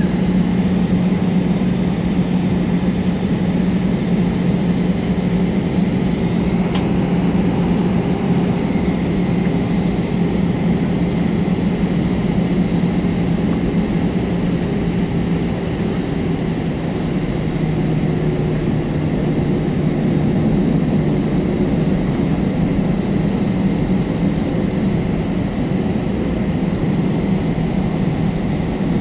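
Airbus A320 jet engines and airflow heard from inside the passenger cabin: a steady drone with a low hum and a thin high whine.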